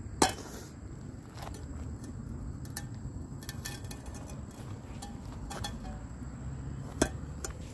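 A few sharp knocks and scattered light clinks, loudest just after the start and again about seven seconds in, over a steady low rumble.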